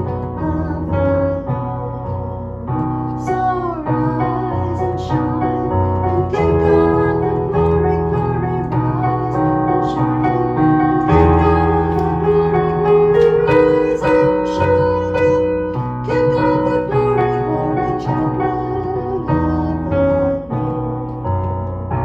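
Instrumental keyboard music, piano or electric piano playing sustained chords and a slow melody.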